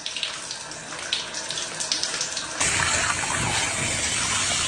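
Water running, with a few light splashes or taps, then suddenly turned up about two and a half seconds in to a louder, steady spray.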